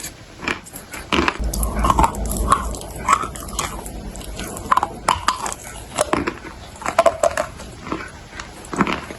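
Close-miked crunching and chewing of dry clay, a quick, irregular run of sharp crunches with wet mouth sounds between them.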